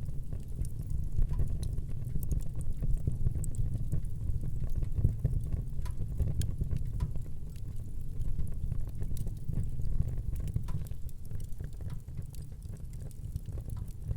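Wood fire burning in a fireplace: frequent small, irregular crackles and pops over a steady low rumble of the flames.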